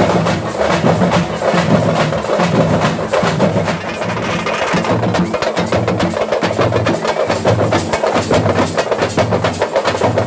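Drums played fast and hard, with many sharp strokes over a low beat that repeats about twice a second.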